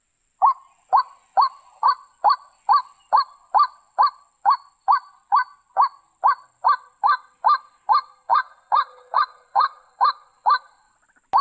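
White-breasted waterhen (ruak-ruak) calling in a steady series of short, identical notes, about two a second. The calls stop about ten and a half seconds in, and a single note follows just before the end.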